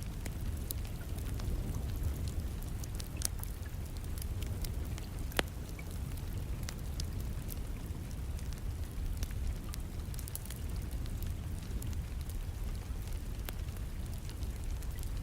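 Wood fire in a fireplace crackling, with scattered sharp pops, the loudest about five seconds in, over a steady low rumble and the hiss of rain.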